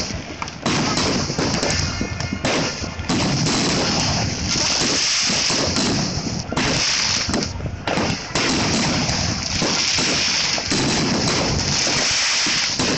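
Aerial fireworks going off in a dense, continuous barrage of bangs and crackle, with only brief dips in level.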